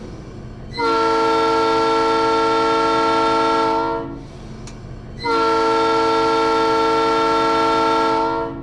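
Diesel locomotive air horn, an EMD GP9's, sounding two long blasts of a steady multi-note chord, each about three seconds, with a short gap between. The low hum of the idling diesel runs underneath. Two long blasts are the railroad signal that the train is releasing its brakes and about to move.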